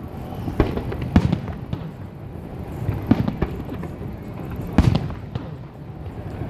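Fireworks shells bursting with sharp bangs that echo, several a few seconds apart over a continuous low rumble, the loudest a little before the end.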